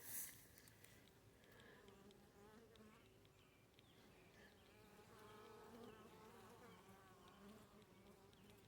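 Faint buzzing of honeybees flying at the hive entrance, wavering in pitch as bees pass.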